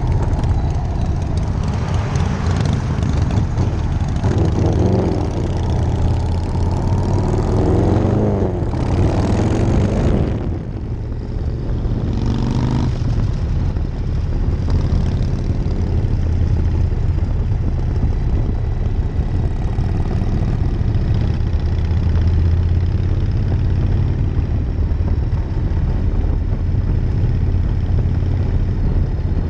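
1999 Harley-Davidson Night Train's air-cooled V-twin running under way, a deep steady drone over the rush of wind. The engine note rises and falls in the first ten seconds, dips briefly about ten seconds in, then holds steady.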